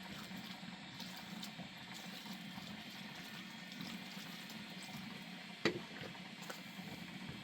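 Wood fire crackling over a steady hiss, with one sharp pop about five and a half seconds in.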